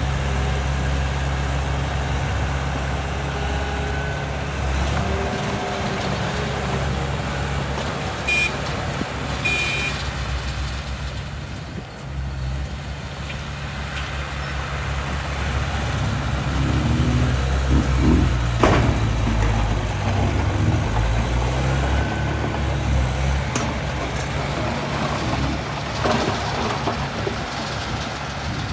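Heavy diesel engine of earthmoving machinery running steadily, its load rising and falling, with one sharp knock about two-thirds of the way in.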